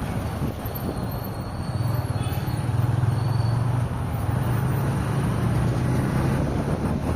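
A car driving on a highway: steady road and engine noise with wind rush, the low engine hum getting louder about two seconds in.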